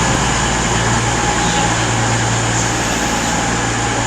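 Class 221 Voyager diesel multiple unit standing with its underfloor Cummins diesel engines idling: a steady low hum over constant noise.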